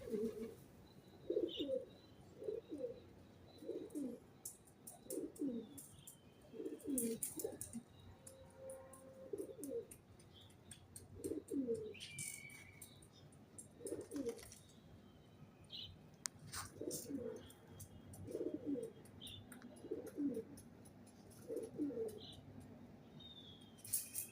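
Pigeons cooing over and over, a low call about once a second, with short high chirps from small birds in between and a few brief rustles.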